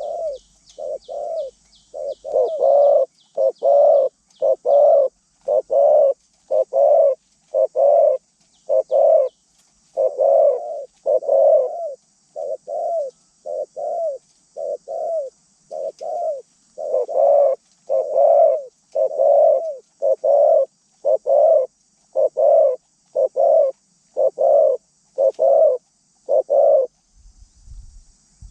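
Zebra dove cooing: a long unbroken run of short, rounded coo notes, about one a second, louder after the first couple of seconds. A small bird gives a quick run of high chirps in the first second.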